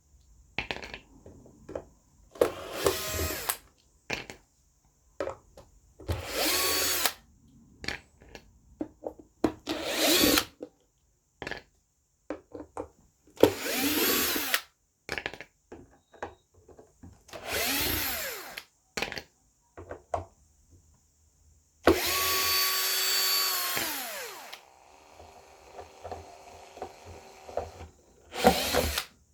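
Power drill running in short bursts, its motor whining up to speed and winding down each time: about seven runs of a second or so, with one longer run of about two and a half seconds near the end.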